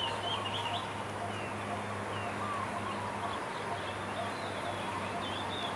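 Birds calling outdoors, short wavy chirps repeated every second or so, over a steady background hiss and a low constant hum.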